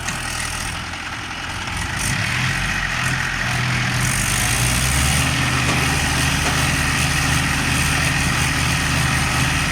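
Tractor engine running steadily just after being started, picking up a little about two seconds in and then settling into an even, loud run.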